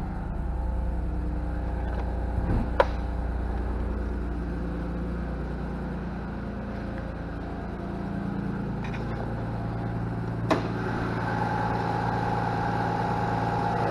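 Nissan 300ZX (Z32) twin-turbo V6 idling steadily shortly after a cold start. Two sharp clicks, one about three seconds in and one about ten seconds in.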